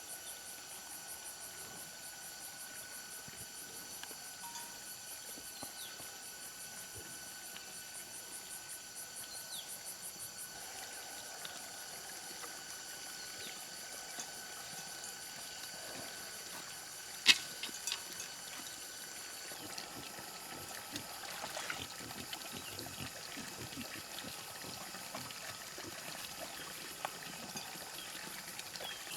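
Insects chirping and trilling steadily in several high, constant tones, one of them pulsing evenly, with a single sharp knock about halfway through and a few small clicks after it.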